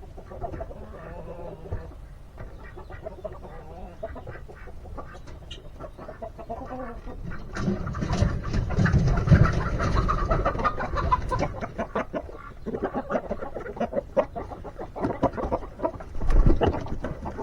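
Domestic chickens clucking, getting louder and busier about halfway through.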